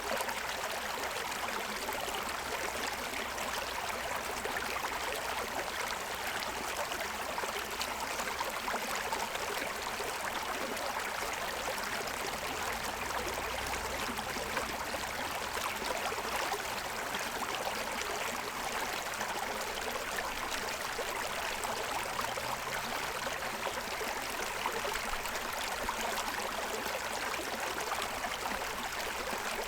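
Forest stream running steadily over the stones of its bed, a continuous even rush of water.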